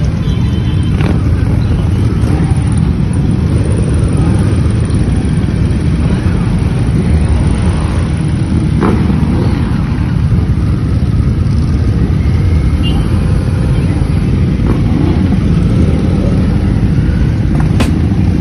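Steady loud rush of wind and motorcycle engine noise while riding at speed, dominated by low rumble with no change in pace.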